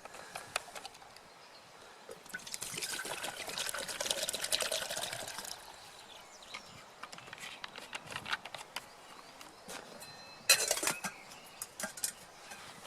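Water being poured for about three seconds, followed by scattered small knocks and a sharp metallic clink about ten seconds in.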